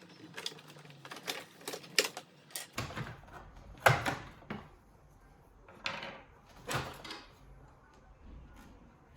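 Sharp clicks and knocks of tools and small metal parts being handled on a Singer Curvy sewing machine under repair: a quick run of light clicks, then three louder knocks further apart.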